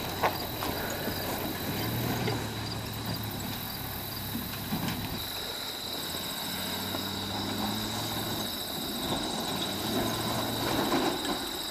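Dodge truck's engine idling after the climb, a low hum that swells and eases a little now and then. A steady high insect drone runs underneath.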